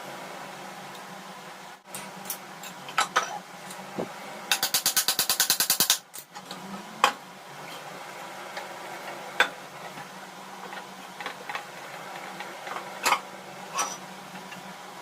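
Hand tools tapping and knocking on metal parts, in separate single strikes, with a fast run of about a dozen even clicks near the middle, over a steady background hum.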